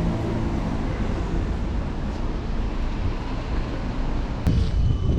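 Street traffic noise, steady and rumbling, as vehicles pass close by. About four and a half seconds in, there is a sharp click followed by a thin, steady high tone.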